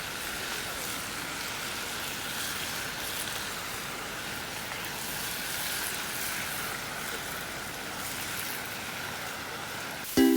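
Steady sizzling of food frying. Ukulele music starts just before the end.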